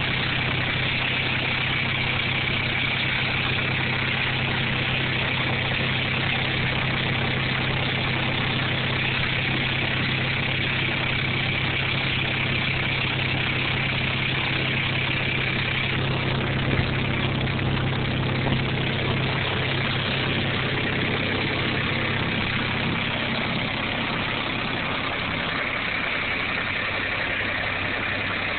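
Ford 1210 compact tractor's Shibaura diesel engine idling steadily, just after a cold start with the glow plugs.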